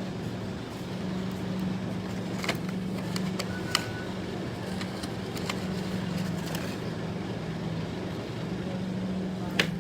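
A car engine running steadily as a low hum, with a few sharp clicks: two in the middle and a louder one near the end.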